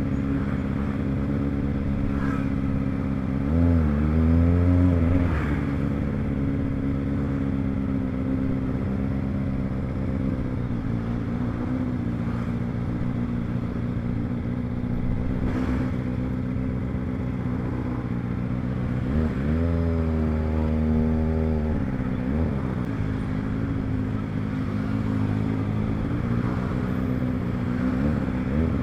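Kawasaki ZX25R's 249 cc inline-four engine running at steady cruising revs while riding. The pitch dips and rises briefly a few seconds in, again about two-thirds of the way through, and at the very end, as the throttle and gears change.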